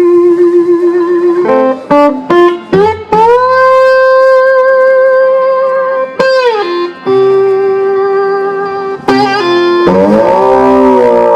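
Live electric guitar lead: long held notes that bend up into pitch and waver with vibrato, broken by quick runs of short notes, with several notes ringing together near the end.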